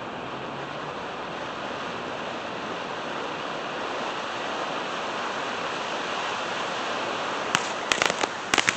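A steady hissing rush, then near the end a string of firecrackers starts going off in quick, sharp cracks.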